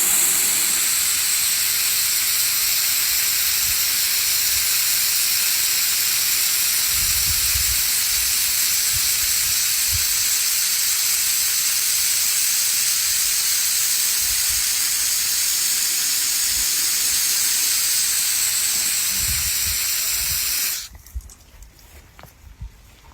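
Pressure washer spraying in a steady, loud hiss, cutting off suddenly near the end, after which only a few faint clicks remain.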